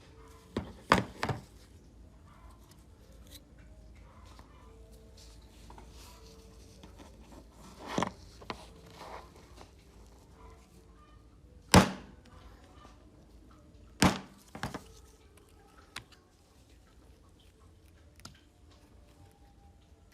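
Sporadic sharp knocks, as of tools or metal parts set down or struck on a hard work surface. Three come close together near the start, then single louder ones about 8, 12 and 14 seconds in.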